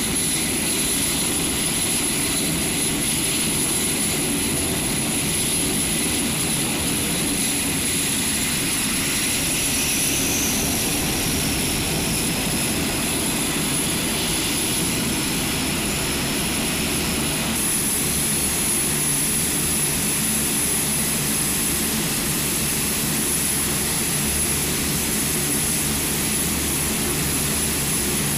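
HC-130J's four Rolls-Royce AE 2100 turboprop engines running steadily, a constant high turbine whine over dense propeller and engine noise.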